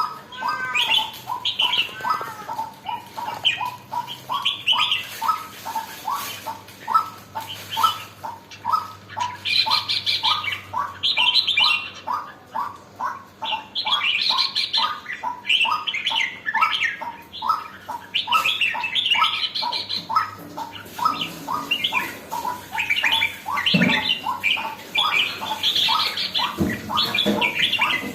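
Red-whiskered bulbul (burung jambul) singing short, bright warbled phrases every few seconds over a steady run of short lower notes about two or three a second; a bird just starting to come into lively song. A couple of low knocks near the end.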